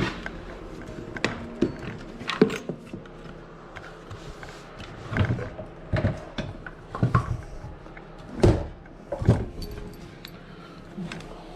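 Irregular knocks and clinks of bolts, washers and nuts being handled and fitted while a trolling motor mount is bolted to a boat.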